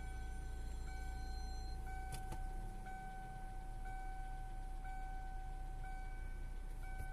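Car engine idling steadily, with a constant high whine over a low hum and a light tick about once a second.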